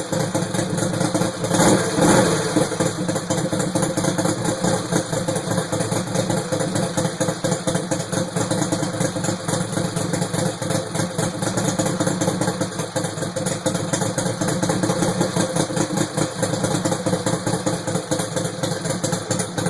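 Modified Briggs & Stratton 35 cubic inch Vanguard mower engine running steadily, with a brief rise in level about two seconds in.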